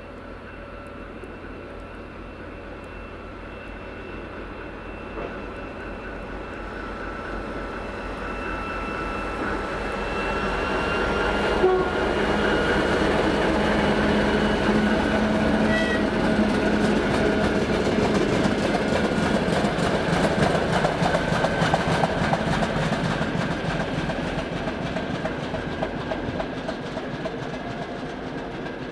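TEM2UMT shunting diesel locomotive hauling a covered wagon approaches and passes: diesel engine running with a steady whine, wheels clattering over the rail joints. It grows louder to a peak around the middle and fades near the end.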